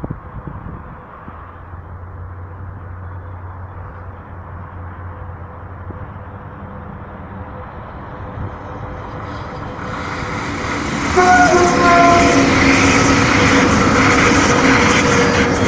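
VL80S electric locomotive with a freight train approaching, the train noise growing steadily louder, then passing close with rumbling wheels and shrill wheel squeal against the rails from about two-thirds of the way in.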